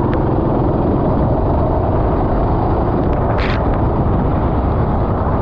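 Kart engine running steadily at racing speed, with a brief hiss about three and a half seconds in.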